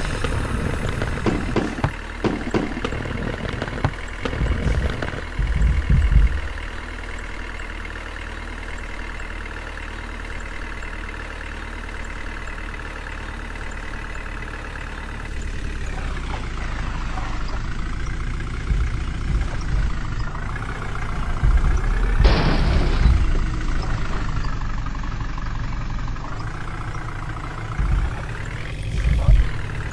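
Tractor diesel engine running, with a few knocks and thumps in the first six seconds. About halfway through its pitch sags and then recovers, and near the end it briefly rises and falls again.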